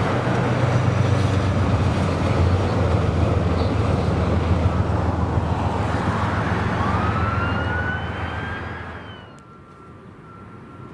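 A train running past: a loud rumble of wheels over a low engine drone, which fades away about eight seconds in. A whine rises in pitch over the last couple of seconds of the passing and stops abruptly.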